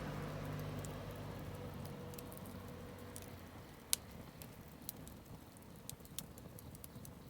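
Wood campfire crackling, with scattered sharp pops, the loudest about four seconds in. A low engine hum fades away over the first few seconds.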